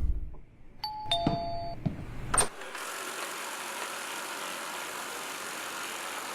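Eufy RoboVac 11S robot vacuum giving a two-note falling beep about a second in, with a few clicks. Its motor then runs as a steady whirring hiss.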